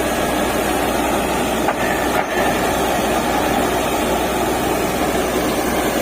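DTH borewell drilling rig running steadily under load, a loud continuous engine and machinery noise, with a brief knock about two seconds in.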